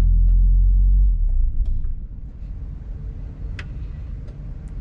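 Freightliner semi-truck's diesel engine running with a steady hum, then about a second in dropping to a quieter, rougher idle rumble as the truck is pulled forward to the fuel pump. A couple of light clicks come near the end.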